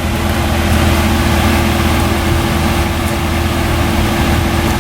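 Car engine idling steadily, a constant low hum with a steady tone above it.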